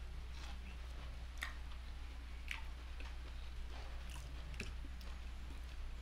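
A person chewing a mouthful of rice and fried fish up close to the microphone, with soft wet mouth clicks and smacks and a few sharper clicks spread through, over a steady low hum.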